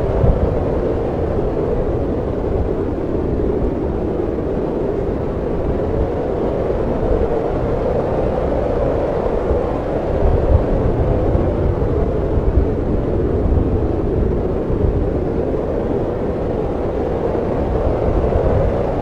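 Snowstorm wind blowing as a steady, deep rush, swelling slightly about ten seconds in and again near the end.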